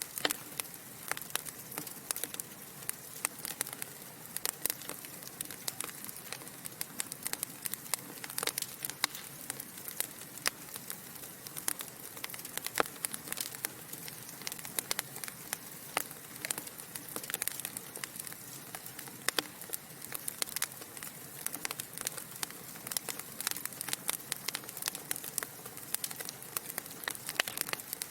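Wood fire burning in a fireplace: logs crackling and popping in many irregular sharp snaps over a steady low hiss of flame.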